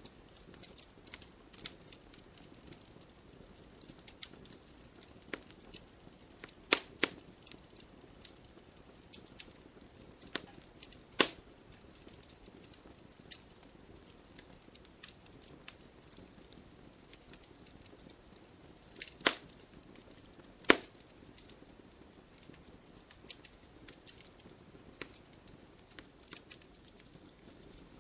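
Wood fire crackling in a fireplace: a soft steady hiss of burning with frequent small pops and a few loud, sharp snaps scattered through.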